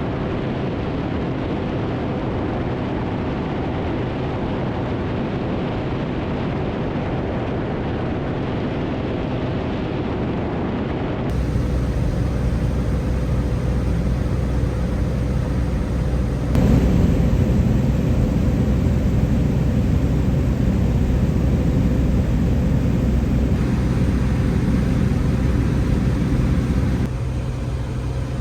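Cessna 180's six-cylinder Continental O-470 engine and propeller droning steadily in flight. The drone shifts abruptly in tone and loudness four times, louder through the middle.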